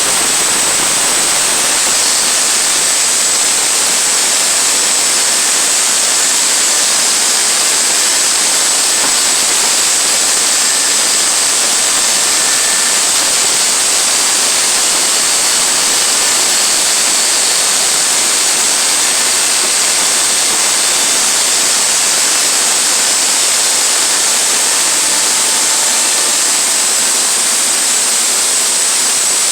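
Band sawmill cutting a pine log into 1-inch boards: a loud, even hiss with a faint high whine that holds steady throughout.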